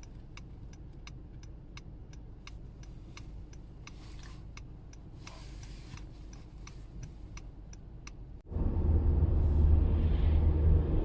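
A car's turn signal ticking steadily, a little over twice a second, over a faint low hum. A bit over eight seconds in the ticking stops and a much louder engine and road rumble takes over.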